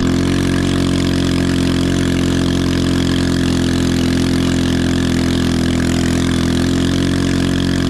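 Engine of a small Chinese 110cc ATV, a single-cylinder four-stroke, running steadily at one unchanging pitch.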